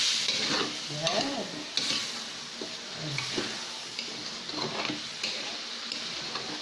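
Pork and chicken adobo frying and sizzling in oil in an aluminium wok, with a metal spatula scraping and clacking against the pan as the meat is stirred.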